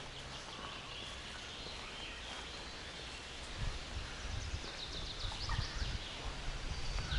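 Birds calling in a forest, with a quick chattering run of calls near the middle, over low thuds of footsteps on the forest floor from about halfway.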